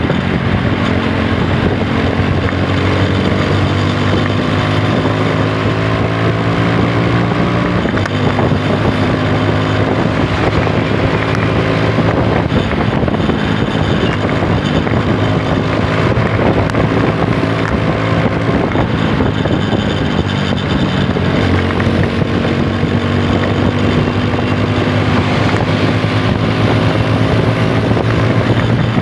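Apache 160 4V's single-cylinder engine running under way, its pitch slowly climbing, falling back once about eight seconds in, then climbing again, with wind rushing on the microphone.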